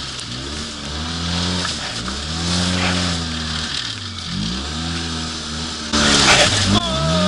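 Polaris RZR 800 side-by-side's twin-cylinder engine revving up and down over and over, as it is throttled through drifts. A loud rushing burst comes about six seconds in.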